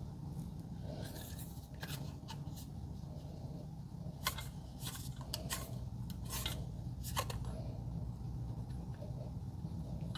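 Scattered light clicks and taps of metal garage door hinge and roller parts being handled and fitted together, over a steady low hum.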